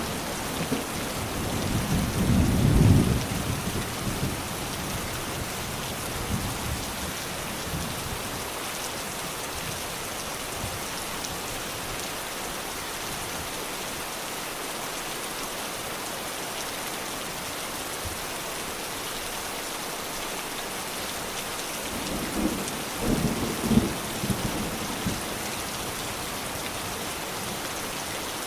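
Steady rain falling, with low rolls of thunder twice: one in the first few seconds and another a little over twenty seconds in.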